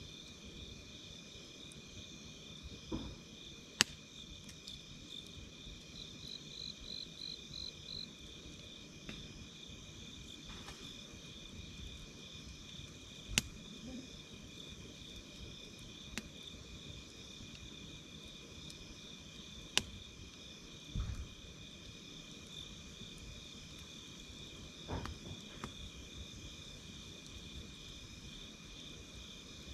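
Night insects chirping steadily in a continuous high trill, with a wood campfire crackling: a few sharp, scattered pops and some soft low thumps from the burning wood.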